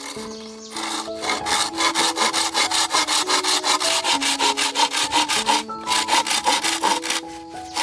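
Fast, regular scraping strokes, about five a second, starting about a second in and stopping near the end, over background music with a simple melody.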